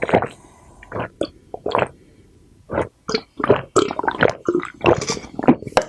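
Close-miked eating sounds: chewing and wet mouth smacks in quick irregular bursts, with a short lull about two seconds in.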